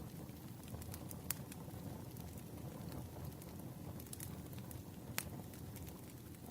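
Campfire crackling: a steady low rumble of burning wood with scattered sharp pops and snaps, the strongest about a second in and again about five seconds in.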